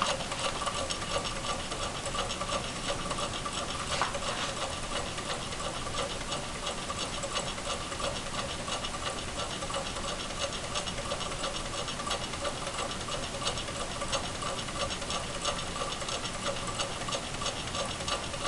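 Stirling engine running at a steady speed, a rapid, even mechanical ticking and rattle.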